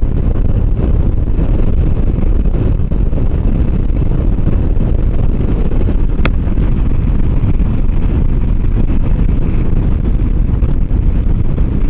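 Motorcycle riding at a steady pace on the road, the engine's running mixed with a steady wind rush on the microphone. A single sharp click about six seconds in.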